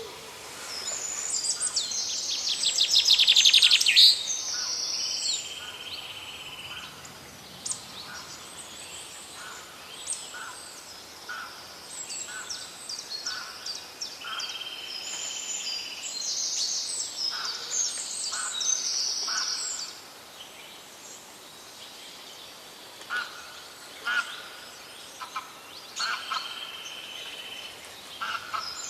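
Birdsong: several birds chirping and trilling, with a loud fast trill about three to four seconds in.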